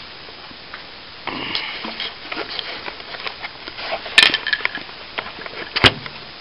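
Rattling and scraping of hard debris being handled, with two sharp knocks about four and six seconds in, the second the loudest: broken plasterboard from the fallen ceiling being moved.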